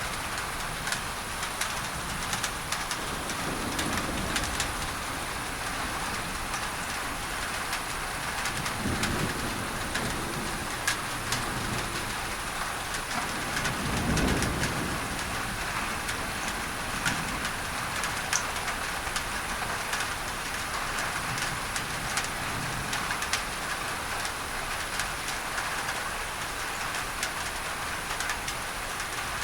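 Rain on a tin roof, a dense patter of drops over a steady masking hiss, with low rolls of distant thunder several times, the strongest about halfway through.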